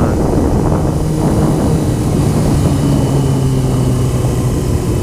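Honda CBR motorcycle engine running steadily while riding, buried in heavy wind buffeting on the microphone. The engine note drops a little about halfway through.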